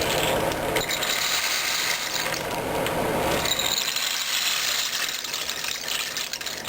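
Homemade snake-gourd rain stick being tipped, the dried beans inside trickling through it in a steady dense patter of fine clicks. The sound changes about halfway through.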